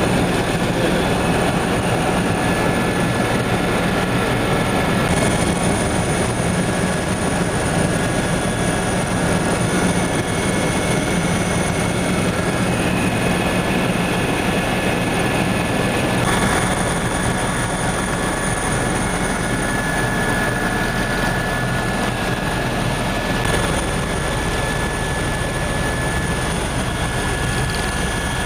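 Helicopter in flight, heard from on board: the steady noise of engine and rotors, with a few steady whining tones running through it.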